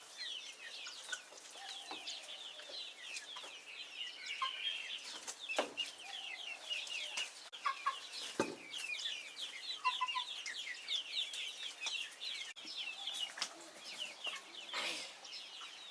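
A flock of young chicks peeping continuously, many short, high, falling peeps overlapping, with a few lower calls and a couple of soft thumps.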